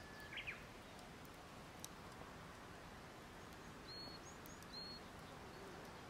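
Faint outdoor background with birds calling: a short chirp just after the start and two short high notes about four and five seconds in. A single faint tick sounds near two seconds.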